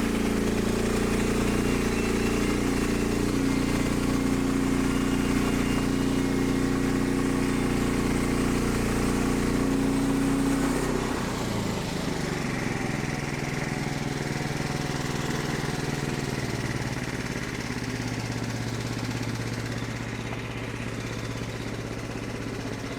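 Portable bandsaw sawmill's small gasoline engine running steadily at high speed; about eleven seconds in it slows and quiets to a lower steady speed, as when the throttle comes back off the cut.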